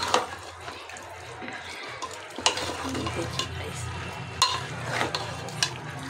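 Chicken pieces frying in masala in a pressure cooker, sizzling steadily as a spoon stirs and turns them, with a few sharp clinks of the spoon against the side of the pot.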